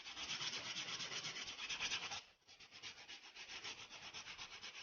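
Edge of a brick-shaped craft tile being rounded off by hand with an abrasive: fast, even rasping strokes, with a short pause a little past halfway. The work leaves the edge smooth and rounded.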